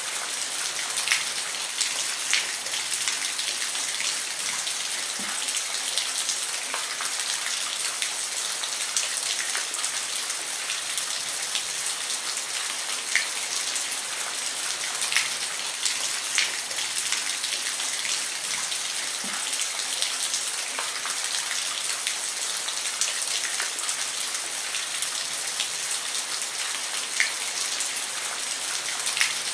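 Steady rain on a roof: a constant hiss with scattered louder drops landing as sharp ticks.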